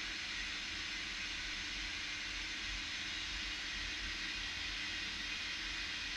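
Steady background hiss of a machine shop, even throughout, with a faint low hum and no distinct taps or clicks.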